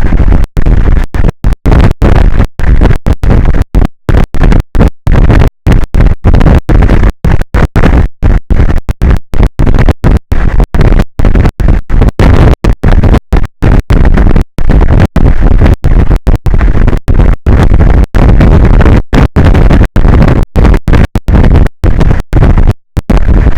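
Strong offshore wind blasting an outdoor camera microphone: loud, distorted rumbling noise that cuts out to silence a few times every second, irregularly, as the audio feed drops out.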